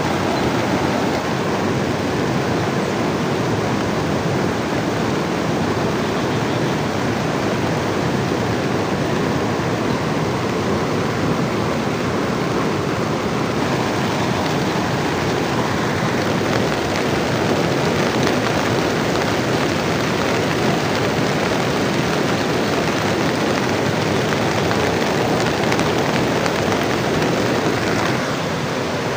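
Steady, loud rushing of water, from heavy rain and a river, with no distinct drops or splashes standing out; it eases slightly near the end.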